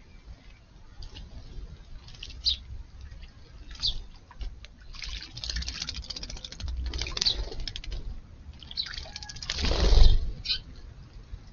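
House sparrows bathing in shallow water, wings fluttering and splashing in bursts, with a few short chirps; the loudest splash comes about ten seconds in. A low rumble runs underneath.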